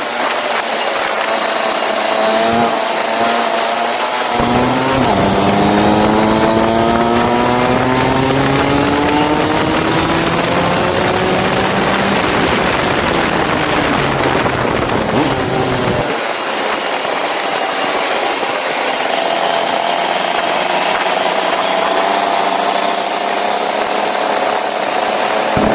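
Go-kart engine running at speed, its pitch falling as the throttle is lifted, then climbing steadily for several seconds, dropping again around the middle and rising once more near the end, as it slows for corners and accelerates out of them.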